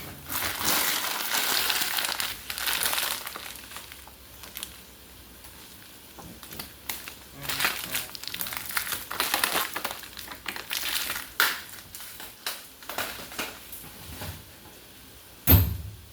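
Dry crinkling and crushing in irregular bursts, loudest in the first few seconds, with one sharp thump near the end.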